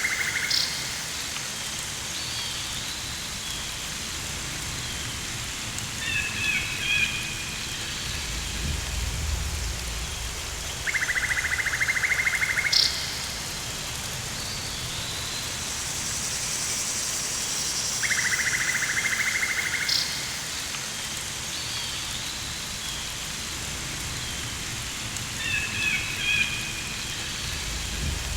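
Rainforest ambience: a steady rain-like hiss. Twice, a rapid pulsing buzz lasts about two seconds, and twice short bird-like chirps are heard. A low rumble comes about a third of the way in.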